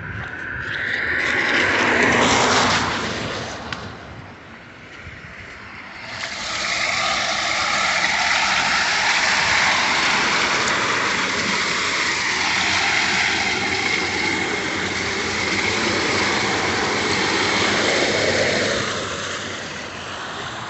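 Cars passing on the wet, flooded road, their tyres hissing through water: one goes by and fades about three seconds in, then a longer stretch of passing traffic follows.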